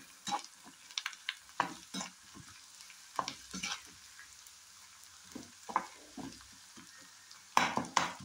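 Onion, garlic, dried red chillies and curry leaves sizzling in oil in a kadai, sautéing until soft. A perforated steel skimmer scrapes and knocks against the pan in irregular strokes, with two louder scrapes near the end.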